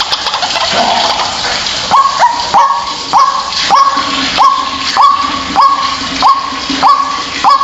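White-breasted waterhen (ruak-ruak) calling in a lure recording: a few irregular notes, then from about two seconds in a steady run of repeated notes, each sweeping sharply up and then held, about one and a half a second, over a constant hiss.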